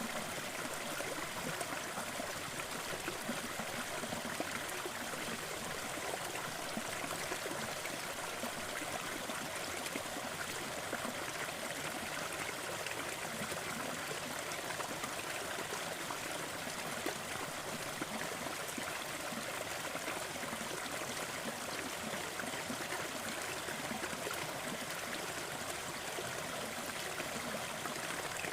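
Crackling fireplace fire with many small pops, mixed into a steady, even rushing noise that holds constant throughout.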